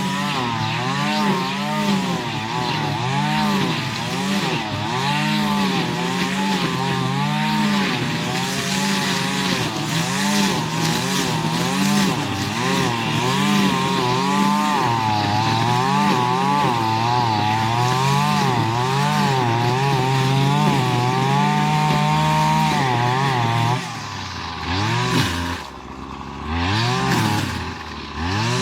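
String trimmer's small petrol engine running at high revs, its pitch swinging up and down every second or so as the throttle and cutting load change. About 24 seconds in it drops back toward idle, with a few short revs before the end.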